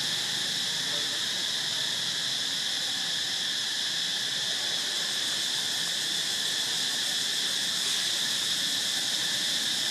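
Steady insect chorus, a continuous high-pitched buzzing drone that holds evenly throughout.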